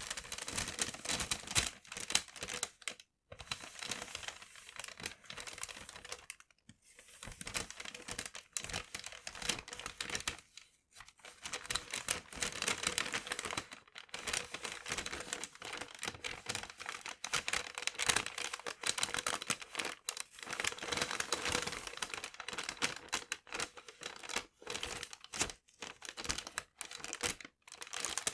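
Paper being crumpled and crinkled in long stretches of dense crackling, broken by a few short pauses.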